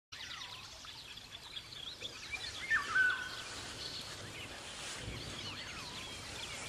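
Several birds chirping and whistling over a steady background hiss. The loudest call, a clear whistle, comes about three seconds in.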